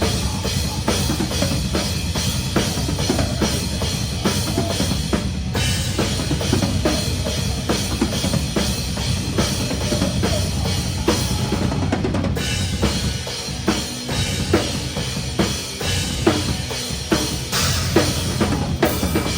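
A metalcore band playing live, heard close to the drum kit, with rapid bass drum and snare hits loudest over a steady low band sound. About twelve seconds in, the drumming changes to slower, spaced-out heavy hits.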